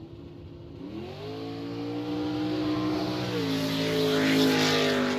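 A car engine revs up about a second in and holds at high revs, its tone shifting a little past halfway while a hiss builds, then it begins to fade near the end.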